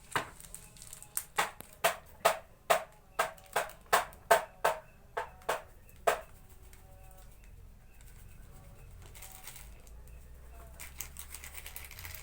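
Sharp taps on a bait-mixing bowl, about two to three a second, as powdered fishing bait is added and worked. They stop about six seconds in, leaving only a few faint light clinks.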